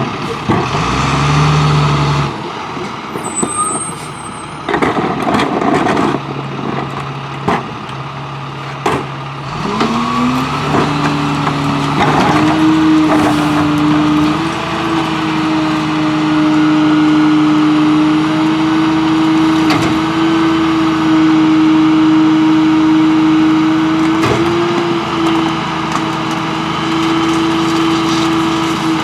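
International New Way Viper automated side-loader garbage truck working. Sharp knocks and clatter come in the first ten seconds. About ten seconds in, the engine revs up and holds a steady, even drone.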